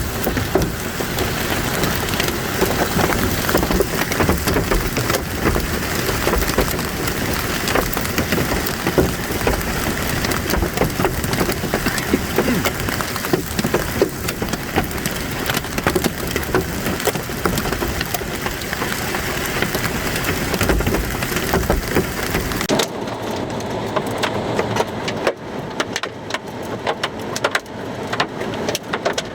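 Heavy rain pouring down in a dense patter of hits. About 23 seconds in, the sound cuts to a quieter, sparser patter.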